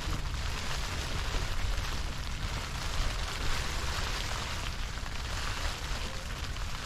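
Steady wind with a low rumble on the microphone and an even hiss over it.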